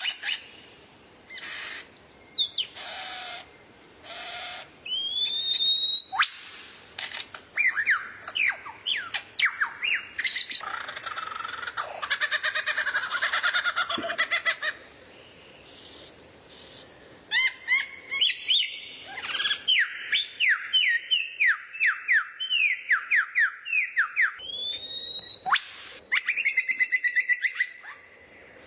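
Songbird singing a varied song of sharp calls, rapid runs of down-slurred whistled notes, rising whistles and a dense buzzy trill, in phrases with short pauses between them, recorded as masteran material for training a kacer.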